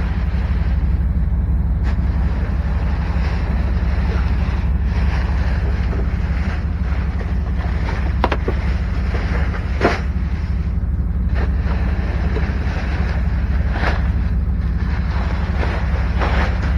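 A steady low engine-like rumble, with a few scattered short knocks and rustles on top.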